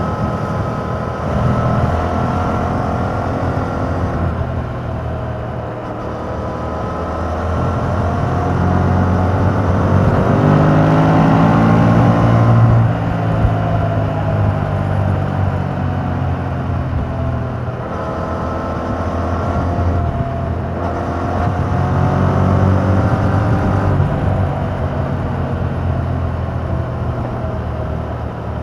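2021 Yamaha MT-07's 689 cc parallel-twin engine through its stock exhaust, ridden on the road: the revs climb steadily for several seconds to a peak about twelve seconds in, drop back, then rise and fall again.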